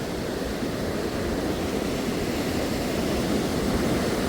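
Steady rush of white water from the Waikato River pouring through Huka Falls, growing a little louder toward the end.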